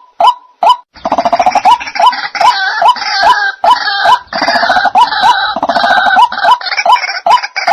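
White-breasted waterhen (dahuk) calling: a run of short, repeated hooked notes, about two or three a second. About a second in, it gives way to a dense, overlapping chorus of harsher calls, and the single notes return near the end.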